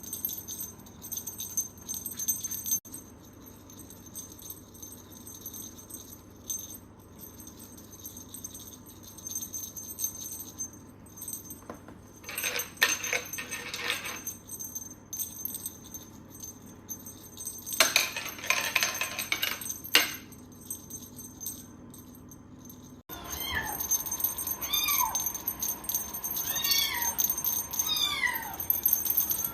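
A cat meowing repeatedly: about half a dozen short meows that rise and fall in pitch, starting suddenly near the end. Before that come two short stretches of rustling noise.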